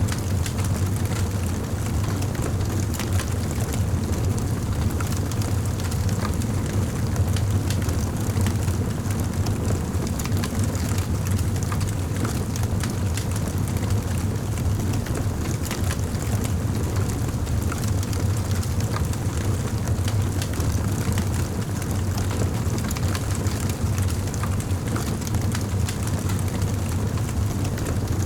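Wood fire burning in a fireplace, with frequent small crackles and pops over a steady low rumble.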